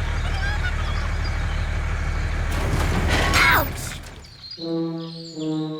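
A low engine runs steadily with birds chirping over it, then cuts off with a short whoosh about three and a half seconds in. Brass-like musical notes follow near the end, a few held notes stepping in pitch.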